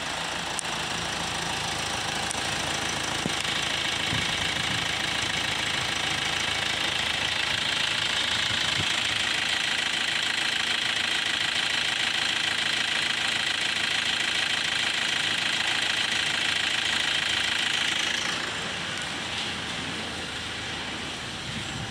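2013 Hyundai Santa Fe's 2.2-litre turbo-diesel engine idling steadily. About eighteen seconds in, the sound drops away and gets quieter.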